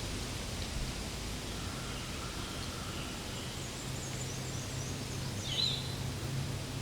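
Steady outdoor background noise with a low hum, and a few faint, short, high chirps starting about halfway through.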